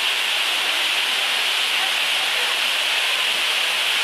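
Steady, even hiss with no breaks or changes, strongest in the upper middle range.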